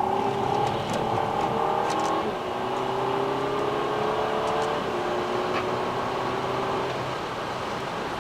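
Car engine accelerating through the gears: its pitch climbs steadily, drops at an upshift about two seconds in, and climbs again before easing off about five seconds in.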